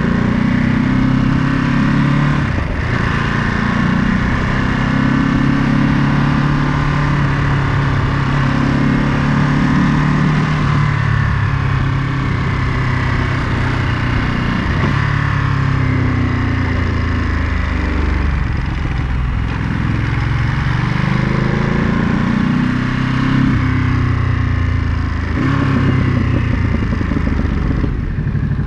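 Ducati Monster 937's L-twin engine running under way, its pitch rising and falling several times as the bike accelerates, shifts gear and slows.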